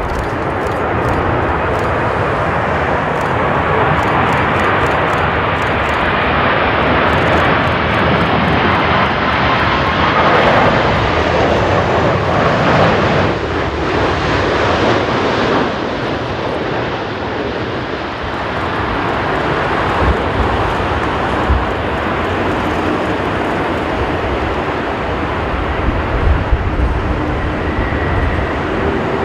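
Jet airliner's engines roaring on a crosswind landing, with strong wind rumbling on the microphone; the roar swells for a few seconds around the middle.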